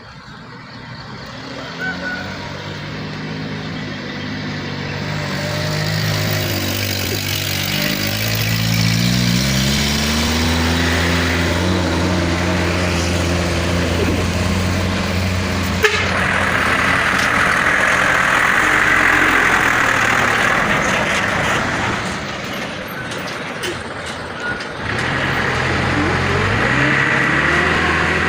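Heavy truck diesel engines labouring up a steep climb, the engine note rising as one truck pulls past. The sound eases for a moment before a second truck's engine rises near the end, with a single sharp click about halfway through.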